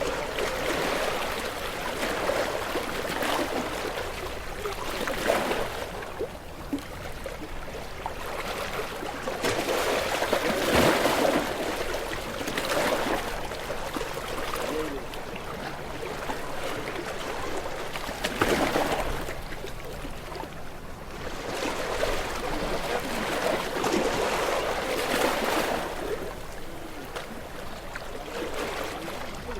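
Ocean waves breaking and washing in, swelling and dying away in irregular surges a few seconds apart.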